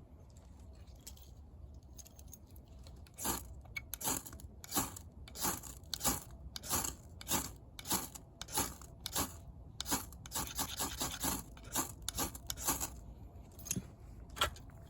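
Short scraping strokes repeated at an even pace, about one and a half a second, for about ten seconds, then a few single scrapes near the end.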